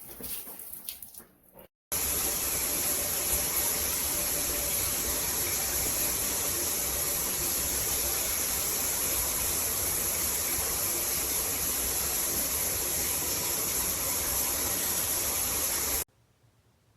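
Gabrylly shower system running: a steady rush of water spray that starts abruptly about two seconds in and cuts off suddenly near the end.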